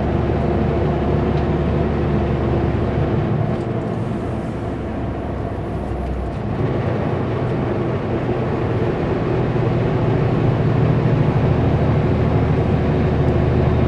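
Kenworth W900L semi-truck's diesel engine working under heavy load on a grade, pulling a loaded Super B. The engine note eases off briefly about four seconds in, then pulls back up and grows louder toward the end.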